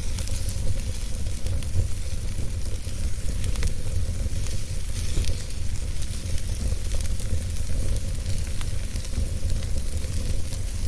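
Wood fire burning in a fireplace: a steady low rumble of flames with a hiss and many small, scattered crackles and pops.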